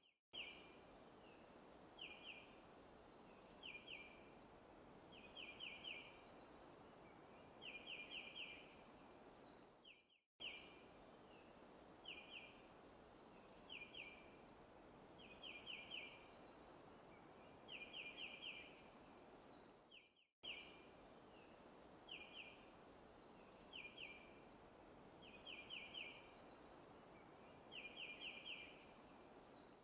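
Faint looped forest ambience: a bird chirping in short clusters of quick, same-pitched notes, one to about five at a time, over a soft steady hiss. The roughly ten-second recording repeats, dropping briefly to silence at each seam, twice.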